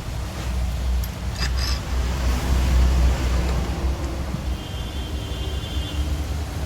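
Low, steady rumble of a motor vehicle, with a few light metallic clicks a little over a second in.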